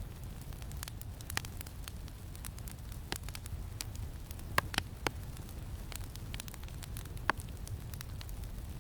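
Campfire crackling: scattered sharp pops and snaps, with a few louder pops a little past halfway and one near the end, over a steady low rumble of wind.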